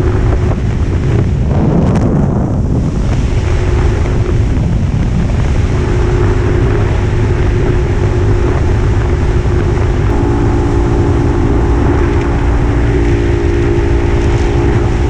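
1950s Puch 250 TF two-stroke motorcycle engine running steadily while riding, under heavy wind noise on the microphone. The engine note comes through more clearly about ten seconds in.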